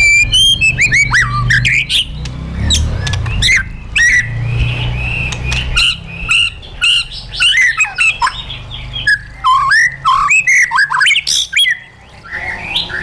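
White-rumped shama singing a fast, varied song of whistled notes that glide up and down, mixed with sharp clicks, over a low rumble during the first half.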